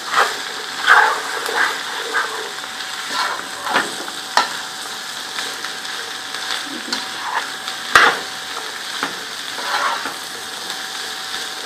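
Chopped okra and onions sizzling in oil in a pot while a spoon stirs them, with a steady frying hiss and a few sharp scrapes and knocks of the spoon against the pot, the loudest about 8 seconds in.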